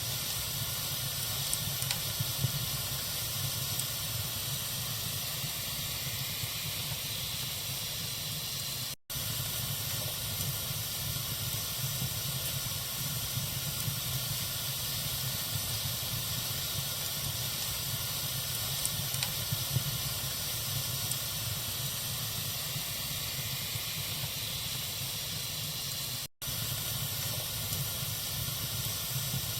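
Campfire burning with a steady hiss and occasional faint small crackles. The sound cuts out completely for a moment twice, about 9 seconds and 26 seconds in.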